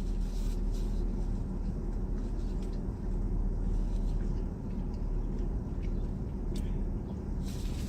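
Steady low rumble inside a car, the engine running with the air conditioning on, with a few faint ticks.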